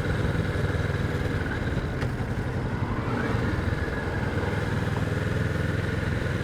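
Kawasaki Vulcan 650's parallel-twin engine running steadily while riding slowly.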